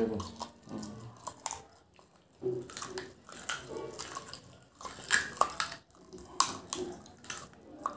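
Biting and chewing tough desi (country) chicken on the bone: irregular mouth clicks and smacks. The meat is very tight and slow to chew.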